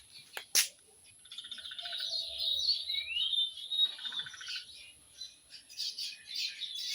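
Songbirds chirping and chattering, with rising whistled notes now and then. A sharp click sounds about half a second in.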